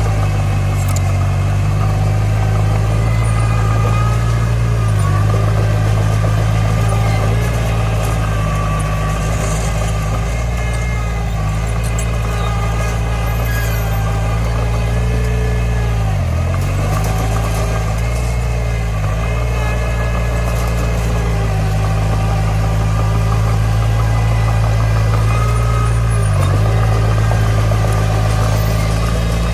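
Komatsu D20 bulldozer's diesel engine running steadily, its pitch dipping briefly a few times, most deeply about sixteen seconds in.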